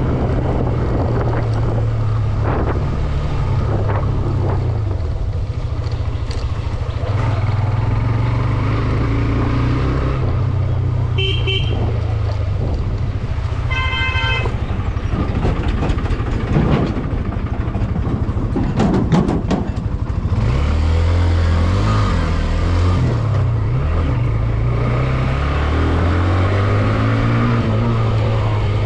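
Hero Xtreme 125R single-cylinder motorcycle engine running steadily while riding on the road, with road and wind rumble. A vehicle horn honks briefly twice near the middle, and other traffic passes a few seconds later.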